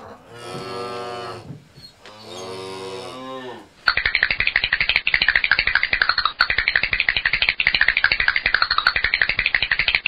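Two lowing calls of a lowland anoa, a dwarf buffalo, each about a second long and dropping in pitch at the end. From about four seconds in, a louder, dense, rapid crackling buzz takes over and carries on.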